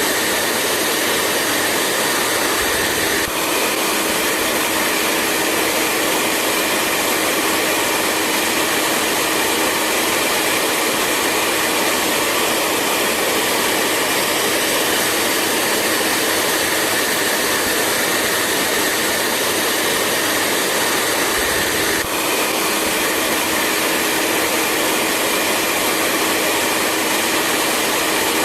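Hair dryer running steadily: a continuous rush of blown air with a high motor whine that shifts slightly in pitch twice.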